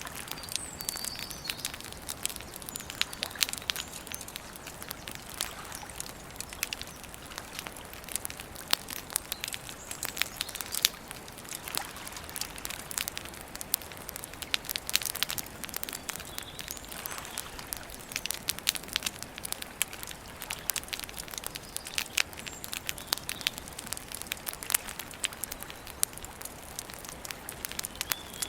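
Wood campfire crackling steadily, with frequent sharp, irregular pops and snaps.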